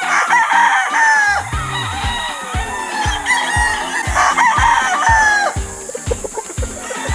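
Several gamefowl roosters crowing, their calls overlapping: one just after the start, then more from about three seconds in to about five and a half seconds.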